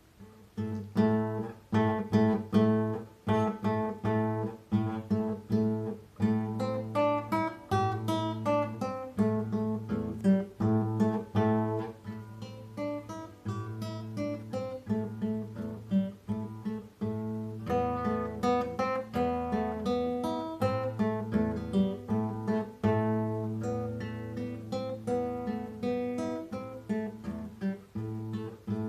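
Solo classical guitar played fingerstyle: a stream of plucked notes over a repeated low bass note, starting about half a second in. About two-thirds of the way through the bass moves lower for a few seconds.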